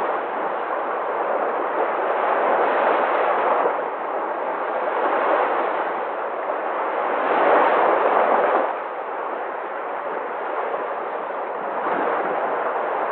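Sea waves breaking and washing ashore: a continuous rushing noise that swells and ebbs, with the biggest surge about seven seconds in that falls away suddenly about a second and a half later.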